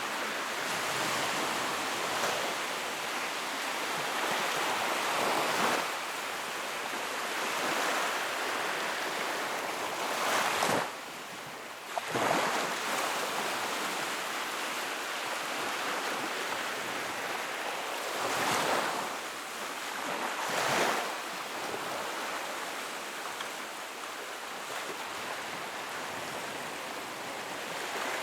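Fire burning in a fireplace: a steady rushing hiss of flames that swells and eases several times, with a brief drop in loudness a little before the middle.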